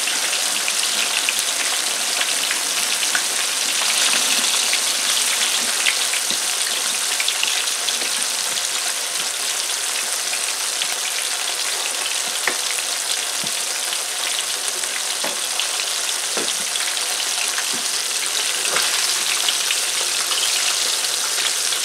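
Breaded flounder fillets frying in hot vegetable oil: a steady sizzle of bubbling oil with small scattered crackles.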